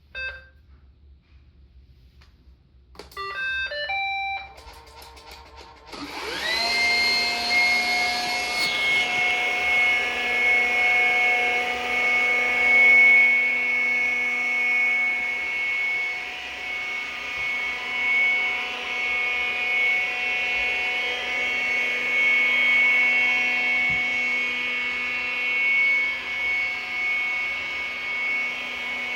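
iRobot Scooba 390 floor-scrubbing robot starting up: a click, then a short tune of beeps about three seconds in, and about six seconds in its motors spin up with a rising whine and settle into a steady running hum.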